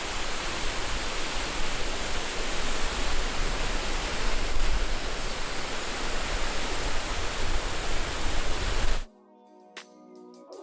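La Coca Falls waterfall rushing, a loud steady roar of falling water. It cuts off suddenly about nine seconds in and gives way to quiet music.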